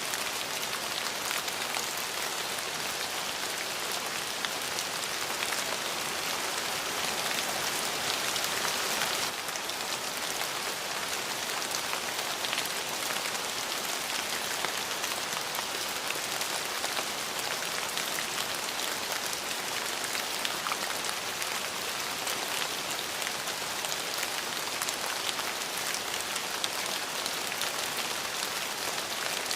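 Steady rain falling, a dense even patter of many small drops, easing slightly about nine seconds in.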